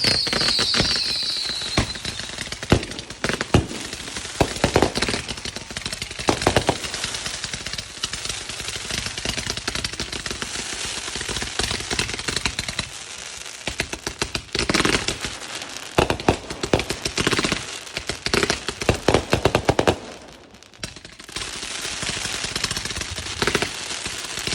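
Consumer fireworks going off: a high whistle that falls slightly at the start, then long runs of rapid crackling pops and bangs in clusters, easing into a brief lull about twenty seconds in before picking up again.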